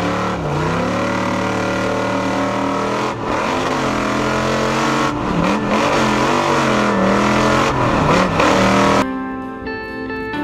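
Pro Lite short-course race truck's engine revving hard, its pitch climbing and dropping again and again as it accelerates and lifts off. About nine seconds in the engine cuts off abruptly and guitar music takes over.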